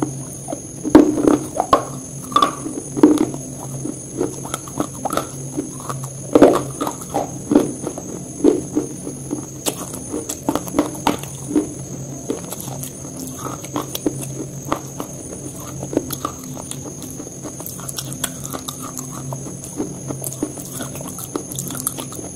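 Close-miked chewing: a person's mouth working on food, with irregular wet smacks and clicks of lips and tongue, louder and more frequent in the first several seconds, then softer and quicker.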